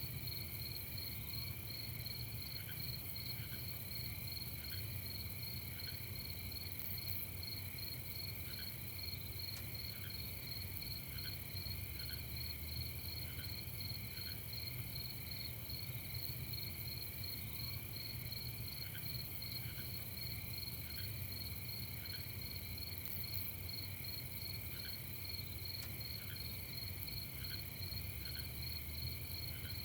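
Night insect chorus of crickets: a steady, fast pulsing trill, with fainter single chirps every second or two and a low background rumble.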